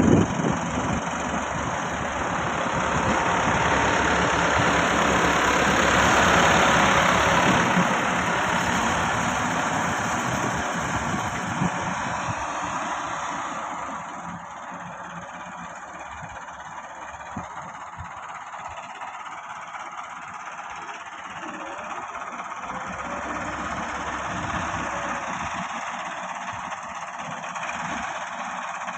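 Massey Ferguson 385 tractor's diesel engine running continuously, louder in the first several seconds and then easing to a quieter, steadier note.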